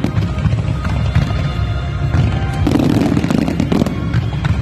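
Fireworks display with dense crackling and repeated bangs from shells and rows of ground-launched comets, over music playing throughout.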